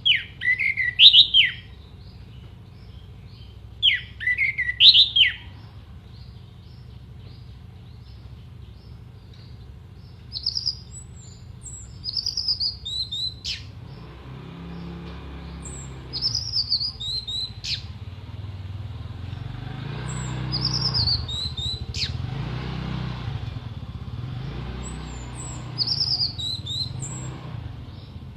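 Orange-headed thrush singing: two loud phrases in the first five seconds, then shorter high phrases every few seconds, several ending in a sharp downward-sweeping note. A low hum and a wash of background noise sit under the song, growing louder in the second half.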